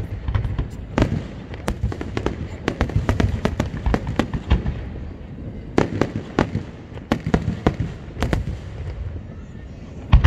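Aerial fireworks bursting in rapid volleys: many sharp reports and crackles close together, with a few heavier booms, thinning out near the end before one loud report.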